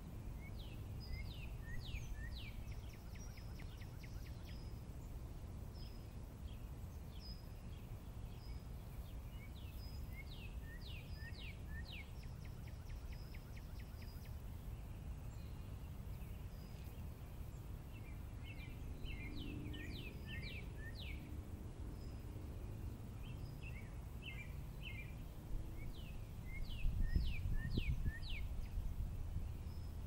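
A songbird singing, repeating a phrase of quick notes that sweep downward several times, over a steady low rumble. Near the end there is a louder low rustling.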